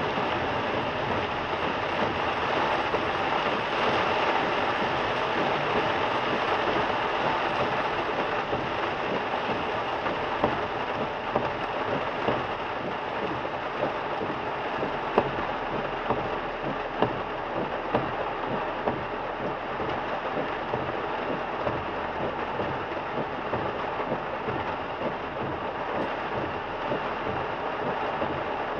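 Heavy rain pelting a moving car, mixed with steady tyre and road noise on the wet highway. A few sharper taps stand out in the second half.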